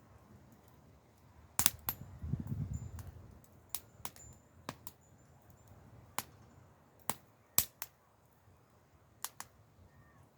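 Wood fire crackling: about a dozen sharp pops and snaps at irregular intervals, with a brief low rumble about two seconds in.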